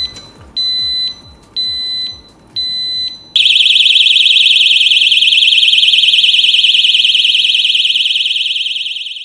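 Built-in alarm of a Kovix KTL motorcycle U-lock: four short beeps about a second apart, then, about three seconds in, a loud, continuous warbling siren that cuts off suddenly near the end. The alarm is still working after the lock has been under water.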